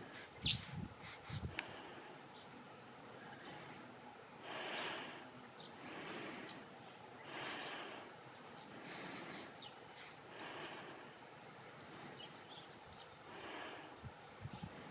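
Insects trilling steadily in a high, thin, finely pulsing buzz, with soft swells of noise coming and going about every one and a half seconds. A couple of short sharp chirps sound in the first two seconds.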